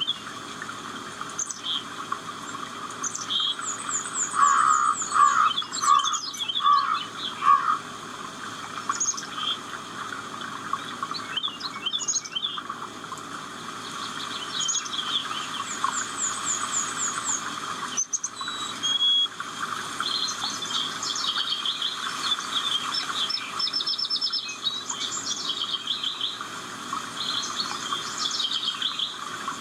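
Several birds calling and singing at once: quick chirps, short rapid trills and whistled notes overlapping, over a steady background hiss.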